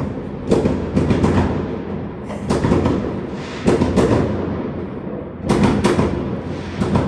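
Fireworks exploding: a rapid run of loud bangs, often two or three close together, each trailing off in an echo.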